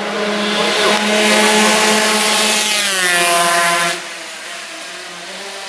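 Racing motorcycle passing at speed, its high engine note dropping in pitch as it goes by, then falling away sharply about four seconds in.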